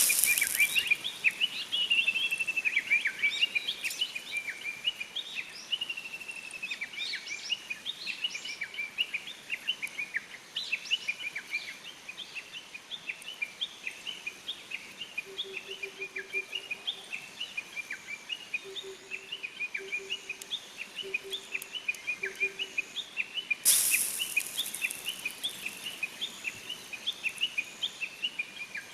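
Small forest birds chirping rapidly and without a break, a dense run of short high notes. A brief hiss cuts in near the start and again about three-quarters of the way through.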